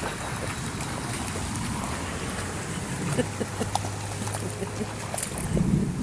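Rain and wind noise, with a low steady hum through the middle and scattered light taps in the second half.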